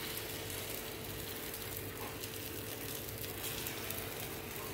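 Hot oil sizzling steadily in an appe pan as spoonfuls of rice-and-dal batter fry in its cavities.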